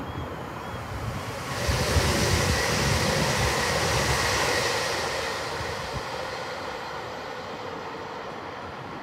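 A CrossCountry Voyager diesel multiple unit passing and running away along the line. Its engine and wheel noise swells about one and a half seconds in, is loudest for a few seconds, then fades as it goes off into the distance.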